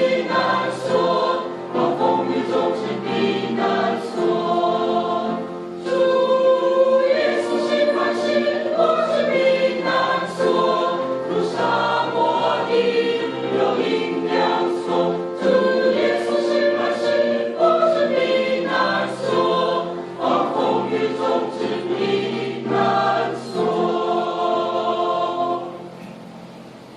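A choir singing a hymn, fading out near the end.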